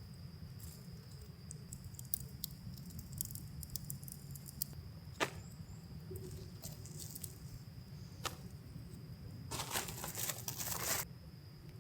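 Small clicks, taps and knocks of camp gear being handled, with a brief crinkling rustle near the end, over a steady faint high-pitched whine and a low background rumble.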